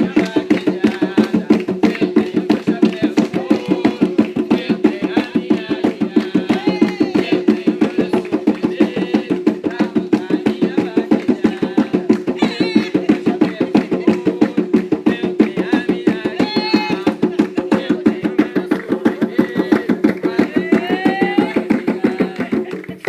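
Atabaque hand drums playing a fast, even rhythm for an Umbanda ponto, with voices faintly over them; the drumming stops abruptly near the end.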